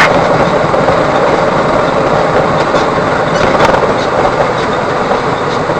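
Steady road noise and engine rumble of a truck on the move, heard from inside the cab, with a few faint clicks about three and a half seconds in.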